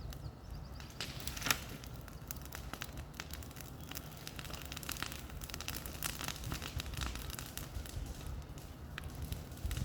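Bonfire crackling, with irregular pops and snaps and one louder pop about a second and a half in, over a low rumble.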